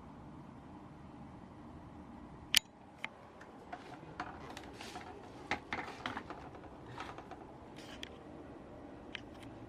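Maspion box fan running with a steady hum, then a sharp switch click about two and a half seconds in that changes the fan's sound, followed by a scattering of small clicks and knocks from handling the fan's controls.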